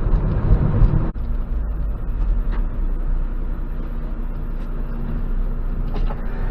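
Dump truck's diesel engine running with a deep, steady rumble. About a second in the sound changes abruptly, then carries on as a steadier hum.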